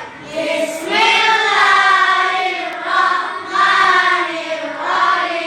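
A class of schoolchildren reciting an Arabic Islamic prayer together in unison, as a drawn-out, sing-song group chant.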